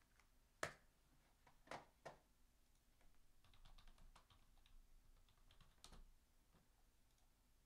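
Quiet typing and clicking on a computer keyboard, as a player's name is looked up: a few separate louder clicks in the first two seconds, then a run of soft, quick key taps.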